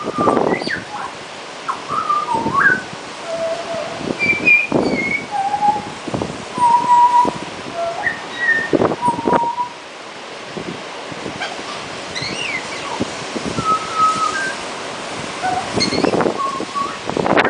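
A black-and-white songbird whistling short, clear notes at several different pitches, one or two at a time with short gaps, and soft rustling between them.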